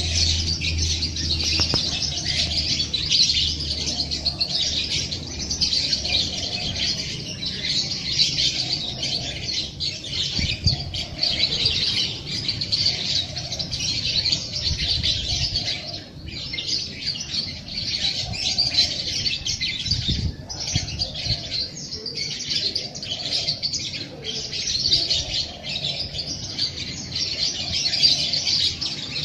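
A dense chorus of many small songbirds chirping and twittering without a break, with softer, lower calls coming and going beneath.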